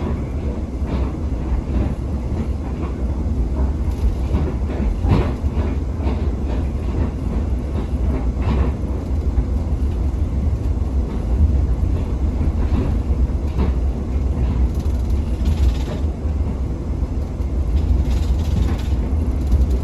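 Tsugaru Railway Stove Train running, heard from inside a diesel-hauled passenger coach: a steady low rumble with occasional knocks and clatter from the wheels on the rails.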